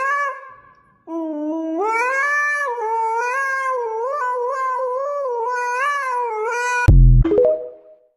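A pet animal's long, wavering, yowling call, held for about six seconds and rising and falling in pitch. Near the end a sudden low thump cuts it off, followed by a brief shorter call.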